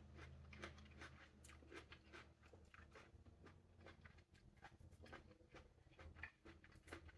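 Faint chewing and small wet clicks of a small green plum being eaten and pulled apart with the fingers, irregular and soft over a low room hum.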